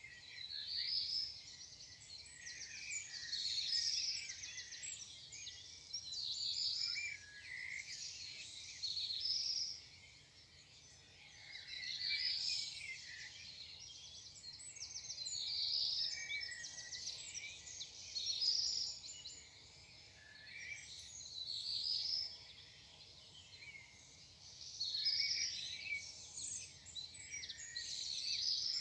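Songbirds singing in the morning: short warbled phrases repeated every few seconds, with more than one bird overlapping at times.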